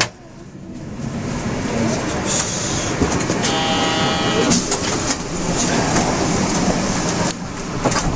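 Rubber-tyred Yurikamome automated-guideway train running along its concrete guideway, a continuous rumble of tyres and running gear heard from inside the cab. A steady high tone sounds for about a second a little past three seconds in.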